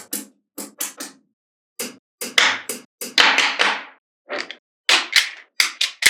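Small magnetic balls clicking as they snap together and are pressed into place, a quick irregular run of sharp clicks, some in pairs and clusters, with a short pause a little after one second.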